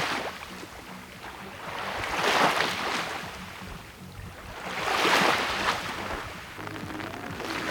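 Small lake waves breaking and washing up a beach, surging about every two and a half seconds, three times.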